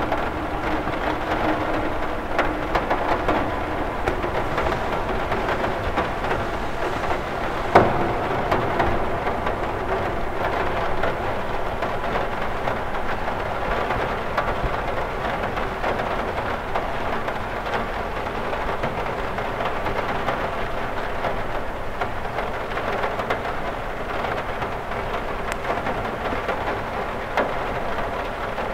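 Steady rain on a cathedral window: a dense run of small drop taps in an even hiss, with one louder, sharper tap about eight seconds in.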